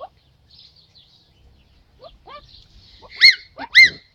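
Parrot calling: a few faint short chirps, then two loud squawks about three seconds in, each rising then falling in pitch.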